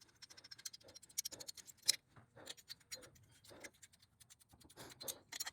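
Faint, irregular clicking and scraping of a ratchet wrench working on a motorcycle's exhaust mounting bolts as they are loosened.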